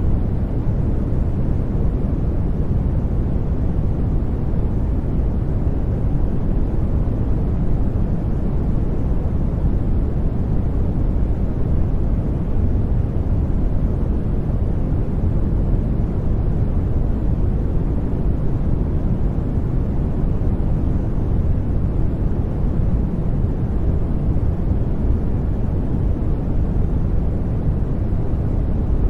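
Brown noise: a steady, deep rushing hiss, strongest in the bass and fading toward the treble, unchanging throughout.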